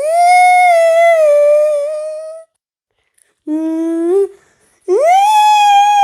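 A voice singing long held notes: a high note held for about two and a half seconds, a pause, a short low note sliding upward, then another long high note that swoops up from low pitch near the end.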